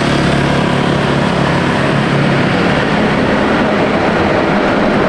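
Small engine running steadily and loudly, like a motorbike or farm cart under way, with a dense wash of mechanical and road noise.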